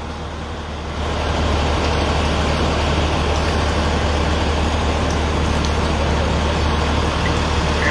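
Heavy vehicle engine running steadily with a deep low hum, growing louder about a second in and then holding level.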